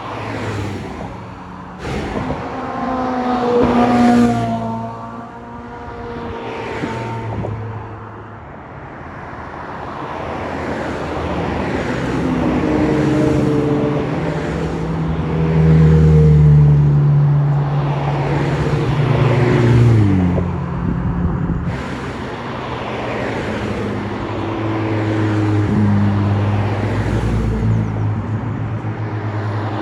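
Several Ferrari sports car engines accelerating and passing one after another, the engine note rising in pitch as they rev. The loudest passes are about four seconds in and a little past the middle, where one engine holds a loud, steady note and then falls in pitch.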